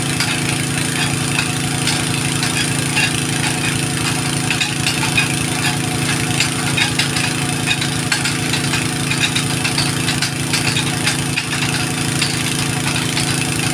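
An engine running steadily at a constant speed, with no revving or change.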